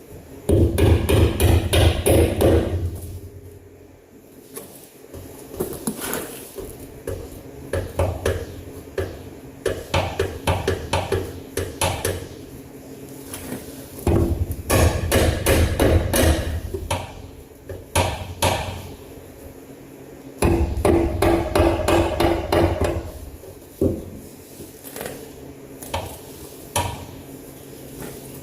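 Hammer striking steel in fast runs of blows with short pauses between, driving a 3/4-inch wrench onto a paint-crusted suspension bolt head so that it will grip.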